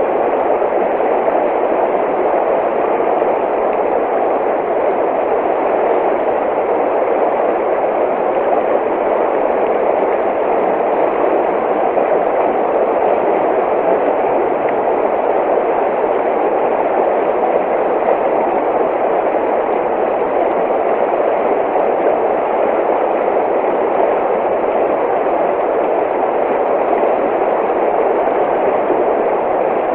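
Running water rushing steadily, a constant even roar with no breaks or changes.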